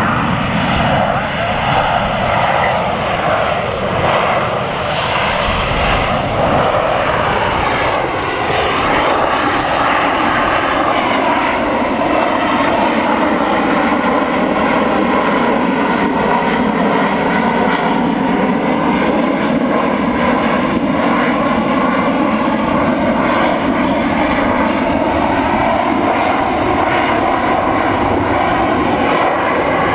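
AV-8B Harrier's Pegasus vectored-thrust turbofan running at high power as the jet hovers: loud, steady jet noise with tones that drift slowly up and down.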